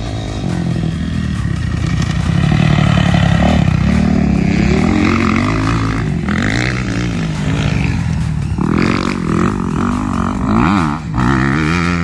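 Motocross dirt bike engines running on a track, the pitch rising and falling again and again as the riders work the throttle and shift gears.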